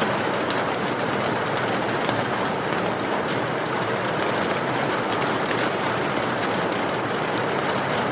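Steady rain with a wood fire crackling: a dense, even hiss peppered with many small, irregular pops.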